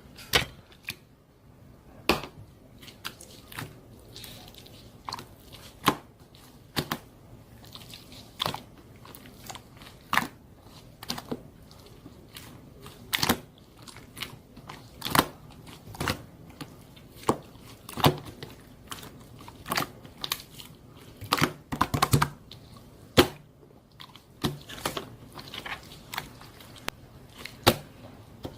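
Crisp crunching clicks, irregular, roughly one a second, like someone chewing or biting crunchy food up close.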